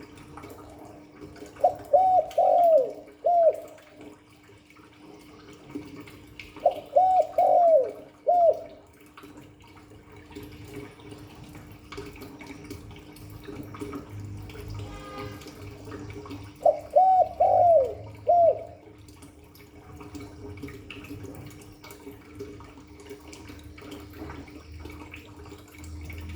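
Spotted dove cooing: three phrases of about four coos each, several seconds apart, each coo dropping in pitch.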